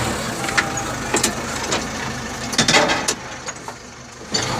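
Backhoe loader's diesel engine running: its low hum drops away at the start and comes back near the end. In between there are scattered knocks and clanks, with a cluster a little under three seconds in.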